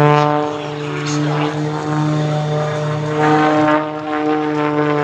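Propeller drone of the MXS-RH aerobatic plane's 380-horsepower piston engine, running at a steady pitch as it flies its display.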